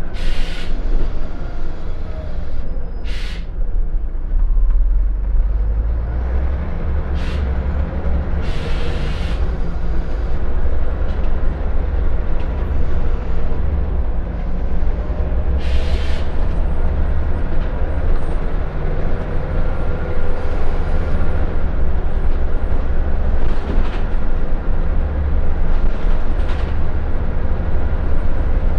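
Scania L94UB bus's diesel engine running under way, heard from inside the passenger cabin: a steady deep rumble with a faint whine that shifts slightly in pitch, and several short sharp noises now and then.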